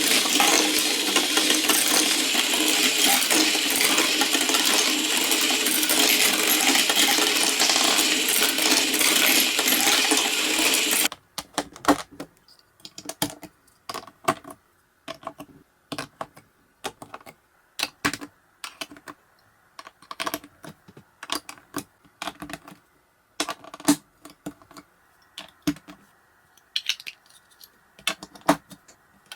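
Many marbles clattering continuously down a block marble run for about eleven seconds, then an abrupt change to separate, irregular clicks and knocks of a few marbles rolling and dropping along the blocks.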